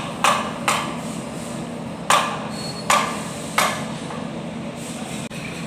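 Hammer blows on metal, five sharp strikes at uneven spacing, each with a short ring, over a steady low hum.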